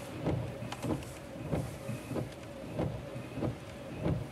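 Car windshield wipers sweeping in heavy rain, a stroke about every two-thirds of a second, over the faint steady hum of the idling car.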